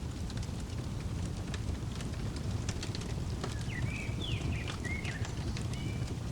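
Fireplace crackling with scattered sharp pops over a steady low rumble, and a bird giving a few short chirps from about three and a half seconds in.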